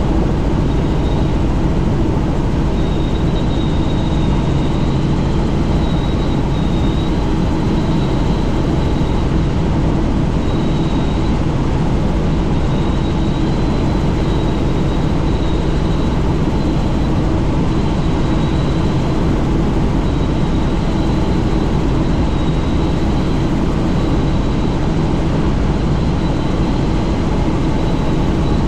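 Helicopter in flight heard from on board: a steady, loud drone of rotor and engine noise with a thin, high whine over it, unchanging throughout.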